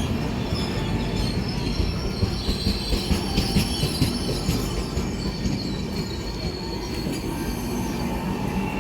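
Express passenger train heard from on board: a steady rumble of wheels on the rails with a high wheel squeal, and a quick run of sharp clacks over rail joints between about two and four seconds in.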